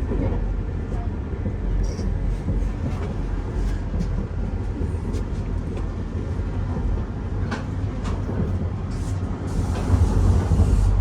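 Passenger train running, a steady low rumble with scattered faint clicks and knocks, swelling louder near the end.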